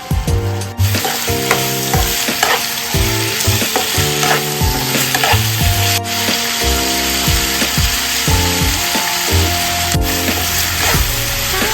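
Chicken pieces frying and sizzling in a pan for a dry roast, stirred with a spatula in frequent short scraping strokes, over background music.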